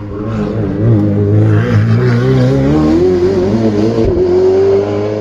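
Race car engine revving hard, its pitch wavering up and down and then climbing steadily over the last couple of seconds.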